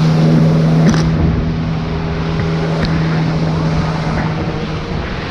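Military helicopter flying past, a steady low hum over rushing noise, the hum fading away about four and a half seconds in.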